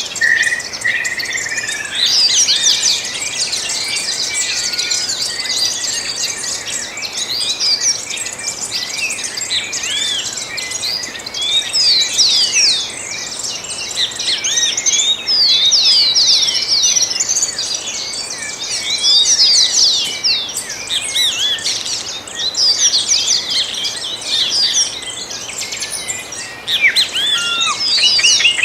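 A dawn chorus of many songbirds singing at once: dense, overlapping high chirps and quick rising and falling whistled notes, with no single bird standing out.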